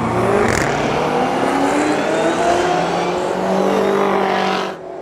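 BMW X5M (F85) and Chevrolet Corvette ZR1 accelerating hard off the drag-strip start line. Both are V8s, the BMW twin-turbo and the Corvette supercharged, and their engines run at full throttle with the pitch climbing and dropping back at each upshift. The sound falls away suddenly near the end.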